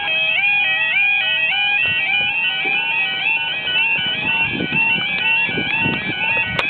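Level crossing warning alarm sounding: an electronic two-tone yodel that keeps stepping between a lower and a higher pitch a few times a second, warning that the barriers are lowering for an approaching train.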